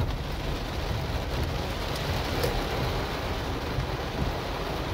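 Heavy rain pattering on the car's windshield and roof, heard from inside the cabin, over a steady low rumble.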